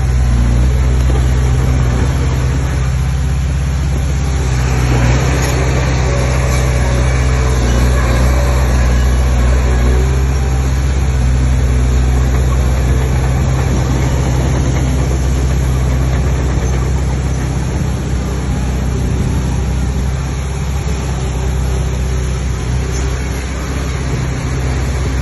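Heavy diesel engine of earthmoving machinery running steadily with a deep, even hum, with a rougher, noisier stretch from about four to ten seconds in.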